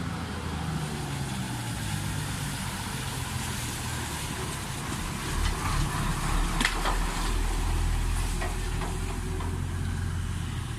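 Diesel engine of a Tata 1613 truck running with a steady low hum, growing louder about halfway through.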